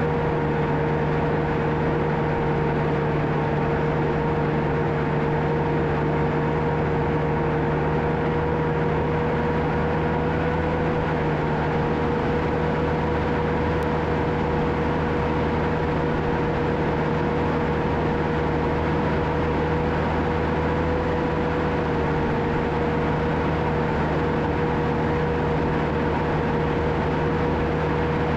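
John Deere 650K crawler dozer's diesel engine running steadily, with a constant high whine over the low engine drone.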